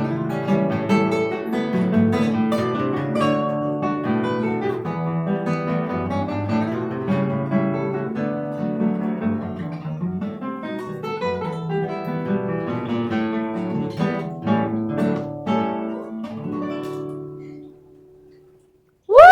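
Solo acoustic guitar playing a choro: a plucked melody over a moving bass line. It ends on a final chord that dies away about 18 seconds in.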